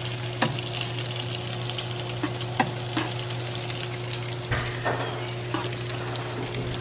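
Gyoza frying in oil and chili sesame oil in a nonstick pan, sizzling steadily, while metal tongs turn them, with several light clicks of the tongs against the pan.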